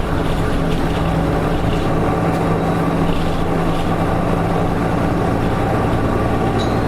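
Nissan Diesel KK-RM252GSN bus's diesel engine running steadily as the bus drives, with road and drivetrain noise. The engine note shifts slightly higher near the end.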